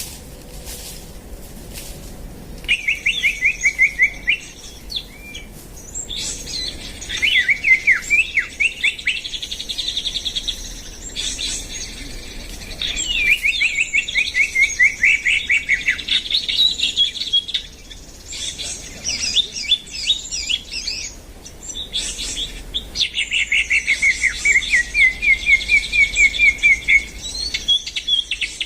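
Songbird singing in repeated bouts of fast, high chirping trills, each bout lasting a few seconds with short pauses between, about five bouts in all.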